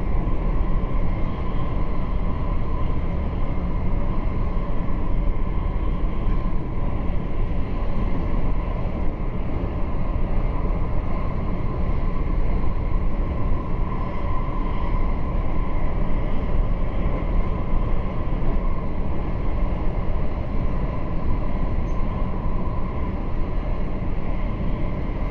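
Steady running noise of a Südostbahn RABe 526 electric multiple unit heard from inside the passenger car: a constant rumble of wheels on rail with a faint steady whine.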